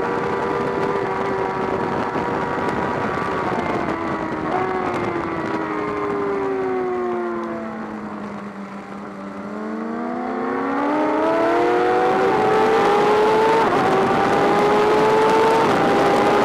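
BMW S1000RR inline-four sportbike engine, heard onboard: the engine note falls as the bike slows for a corner, bottoms out about halfway through, then climbs hard again with three quick upshifts near the end, under wind noise on the microphone.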